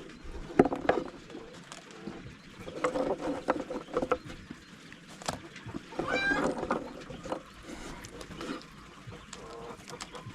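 Chickens clucking, with one longer pitched call about six seconds in, among scattered short knocks and clicks.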